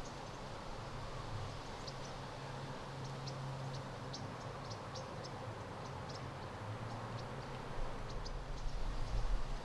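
Outdoor ambience: a steady low rumble with small birds chirping in short, irregular high notes.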